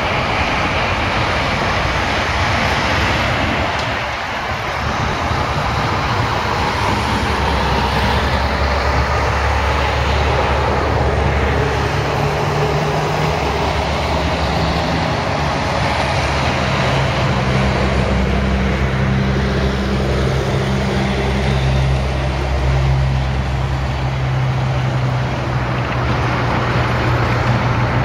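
Steady vehicle noise: a hiss of tyres and air on the road, with a low engine drone that comes in about seven seconds in and holds.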